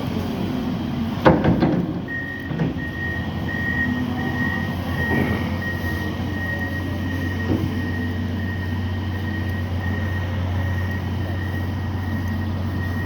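Heavy snow-removal machinery running steadily: the low drone of a loader and truck engine. A loud metallic knock comes about a second in, with a smaller one soon after, as snow is loaded into the truck. From about two seconds in, a thin steady high whine runs over the engine.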